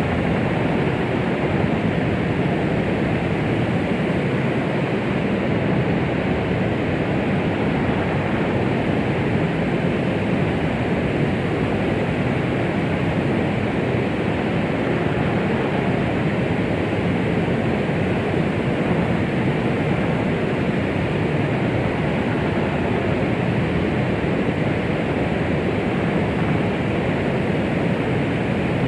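Steady synthetic noise, heavier in the low and middle range than in the treble, like a rushing hiss, played as womb-like sound to soothe a baby. It stays even, without a change.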